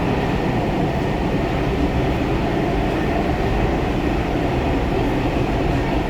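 Metro train on the Joka–Taratala line: steady, even running noise from the rail car, with no distinct clicks or squeals.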